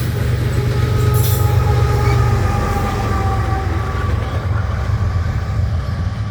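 Loaded covered-hopper cars of a long freight train rolling past, a steady heavy rumble. Faint high whining tones, sinking slightly in pitch, run through it for a few seconds.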